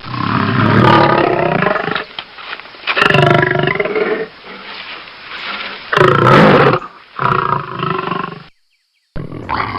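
A large animal roaring: three long, loud roars, about a second or two each, with quieter calls between them. The sound cuts off briefly near the end before another call begins.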